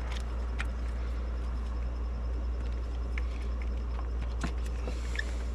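Light plastic clicks and taps of coil-pack wiring connectors being unplugged by hand over a steady low background hum.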